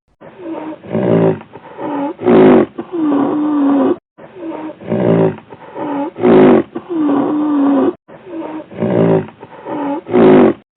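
A large animal's loud calls: a run of short pulsed calls building to the loudest one, then a longer drawn-out call, the same sequence repeated three times.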